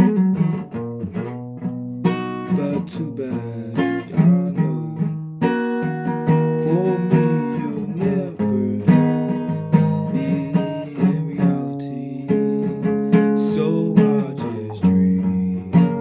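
Guitar being played: strummed chords mixed with picked notes, some of them sliding or bent in pitch.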